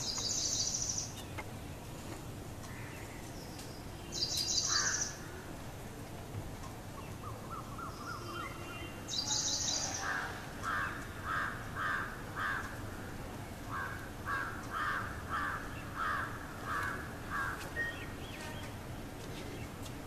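Bird calls: three short, high chirping bursts spaced a few seconds apart, then two runs of evenly repeated mid-pitched call notes, about two a second, over steady outdoor background noise.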